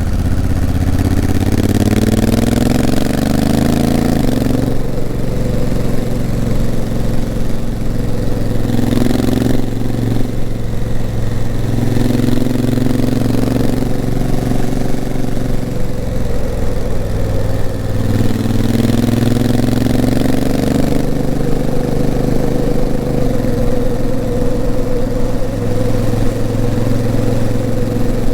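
Honda CRF1000L Africa Twin's 998 cc parallel-twin engine running under way. Its pitch rises under throttle three times, and each rise ends in a sudden drop as the dual-clutch gearbox shifts up, about 4 s in and again about 21 s in. Between the rises it holds a steady pitch.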